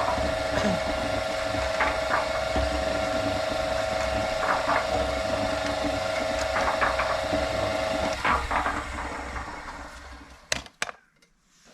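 Concrete mixer running on its new drive motor, which is quiet: a steady hum with occasional light knocks from the turning drum. About eight seconds in it is switched off and winds down over a couple of seconds, followed by two sharp clicks.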